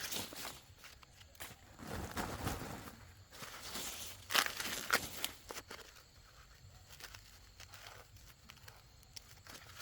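Irregular rustling and crinkling handling noises, with sharper rustles about four and a half seconds in and quieter stretches between.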